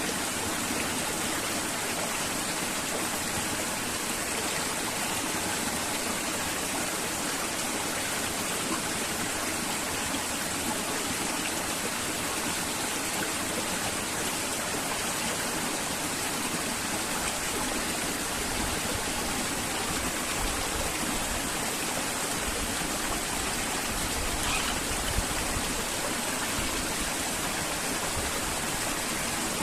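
River water flowing with a steady, unbroken rush. A low rumble rises under it for several seconds past the middle.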